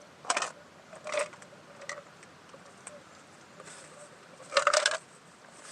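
A few short rustling, handling noises at close range, the longest about four and a half seconds in.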